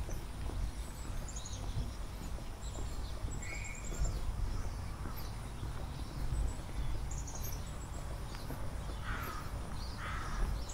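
Birds calling in the open: short, high, rapid trills repeating every second or two, with a few lower calls, two of them close together near the end, over a steady low rumble of outdoor ambience.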